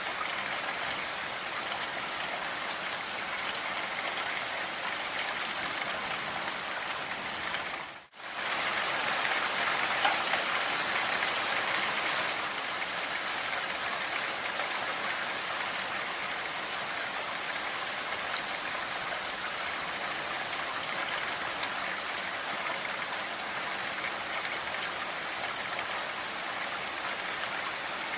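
Steady rain falling, a continuous even hiss of drops. About eight seconds in it cuts out for a split second and comes back slightly louder.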